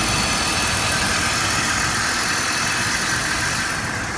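2005 BMW 525i's inline-six engine idling steadily, heard from the engine bay.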